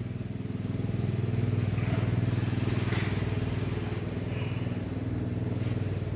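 A can of mass airflow sensor cleaner spraying in one hiss of about two seconds, starting about two seconds in, over a steady low engine-like hum. Faint high chirps, about two a second, in the background.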